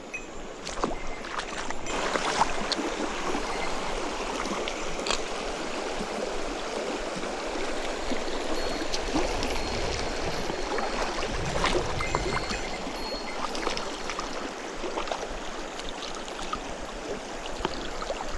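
Mountain stream flowing: a steady rush of water, with a few scattered clicks.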